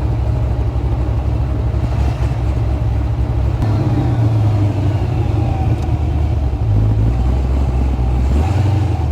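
1991 GMC Syclone's supercharged Dart LSX V8 running steadily under way, heard from inside the cab as a loud, continuous low drone.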